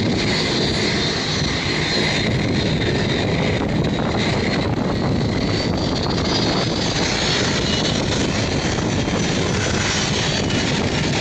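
Boeing 757-300 jet engines running at high thrust, a steady loud noise with a high fan whine that rises slightly about halfway through.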